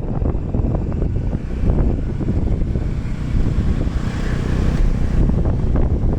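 Wind buffeting the microphone on a moving bike, a loud steady rumble with vehicle noise underneath.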